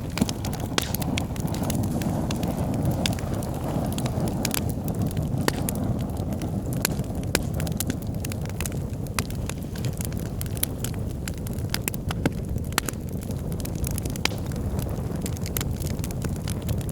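Wood logs burning in a fireplace: a steady low roar of flames with frequent sharp, irregular crackles and pops.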